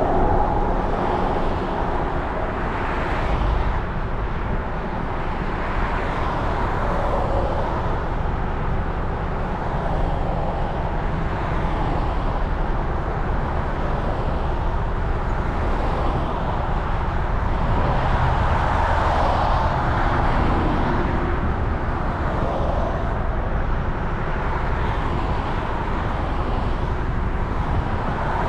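Riding noise from a 2020 Suzuki Burgman 400 scooter on the move: a steady rush of wind and road noise on the mounted camera's microphone, with the scooter's engine and passing traffic underneath, swelling and easing slowly.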